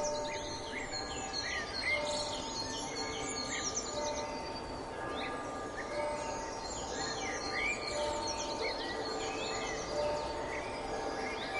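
Ambience of many birds chirping and twittering, with short rising and falling calls all through, over a steady background hum.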